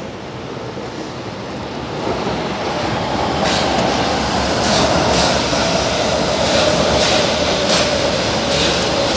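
São Paulo Metro Line 3 train running through the station, growing louder, with a steady whine that drops slightly in pitch. Sharp wheel clicks come every second or so from about three and a half seconds in.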